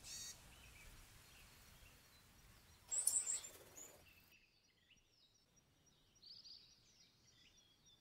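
Short, high bird chirps over a faint outdoor hiss. There is a louder brief burst of high notes about three seconds in, then scattered thin, high calls in a quieter second half.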